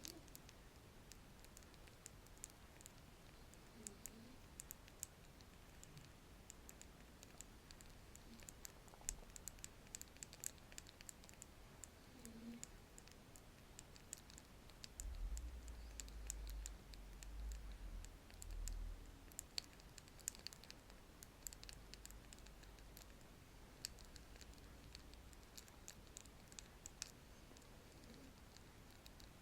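Paint brush worked against a microphone: scattered faint, crisp clicks and ticks of the bristles, with a low rumble for a few seconds about halfway through.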